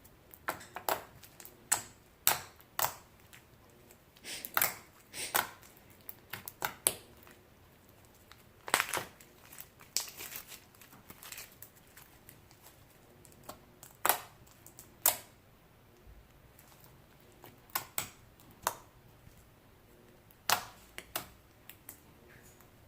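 Clear-glue slime being poked with fingers: irregular sharp clicks and small pops, some in quick clusters, with quiet gaps between them.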